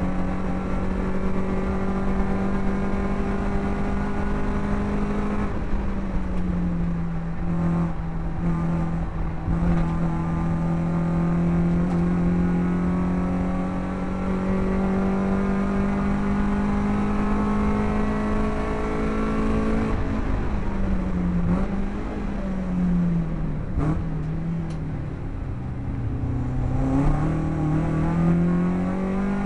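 BMW race car's engine heard from inside the cabin at high revs down a straight. The pitch steps down once about five seconds in and then climbs slowly. Near the end the revs fall and rise again as the car takes a corner.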